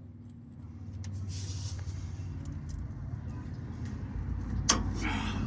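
A low engine rumble, steady and growing louder about a second in, with one sharp knock near the end.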